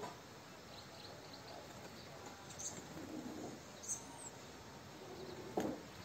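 Small birds at a wooden platform feeder giving a few short, high chirps, one ending in a falling whistle about four seconds in, over a steady outdoor background hiss. A single sharp knock comes shortly before the end.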